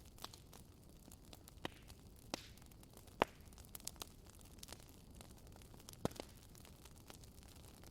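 Wood fire crackling: a low, steady hiss of burning with irregular sharp pops and snaps from the logs, the loudest about three seconds in.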